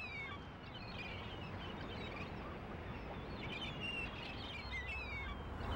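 Faint outdoor ambience: small birds chirping in a few short spells of high calls over a steady low background rumble.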